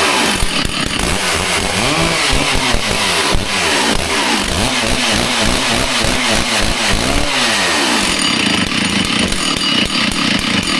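Stihl 064 two-stroke chainsaw running just after starting, its throttle blipped over and over so the engine note rises and falls. About eight seconds in it settles into steady running.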